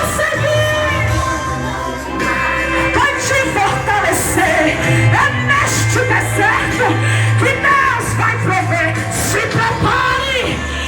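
A female singer singing a gospel song over instrumental accompaniment with a sustained bass line.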